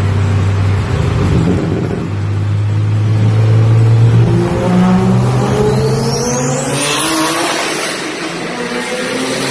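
Car engine running hard under acceleration, its note steady at first and then climbing, with a high whine rising sharply about six seconds in.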